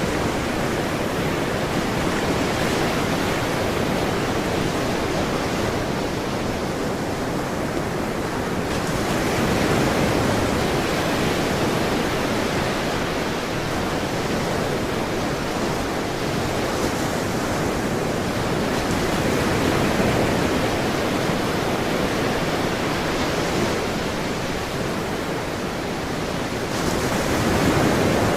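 Ocean waves washing onto a shore in a steady rush, swelling gently every several seconds.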